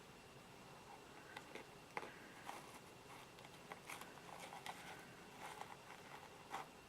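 Faint, scattered small clicks, taps and crackles of hands handling succulents and their pots, irregular, with a slightly sharper click about two seconds in and another near the end.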